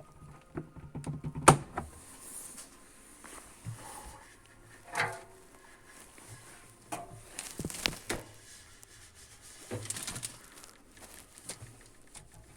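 Scattered clicks and knocks of something being handled, the sharpest about one and a half seconds in, with a brief squeak about five seconds in.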